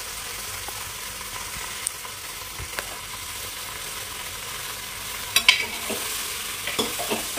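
Eggplant pieces sizzling in hot oil in an open aluminium pressure cooker, a steady frying hiss. From about five seconds in, a spatula scrapes and knocks against the pot as the vegetables are stirred.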